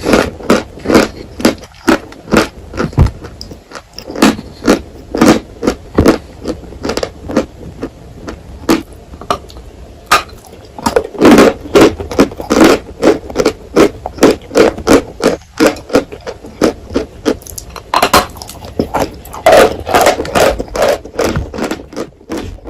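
Close-miked crunching of dry edible chalk being bitten and chewed: a steady run of sharp, loud crunches, two or three a second, with denser bursts of chewing now and then.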